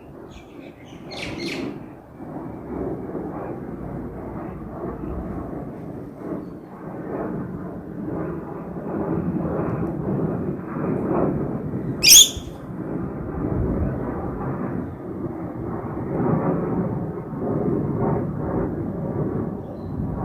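Low rumble of an airliner's engines on takeoff, slowly growing louder. A bird chirps briefly near the start and once sharply about twelve seconds in.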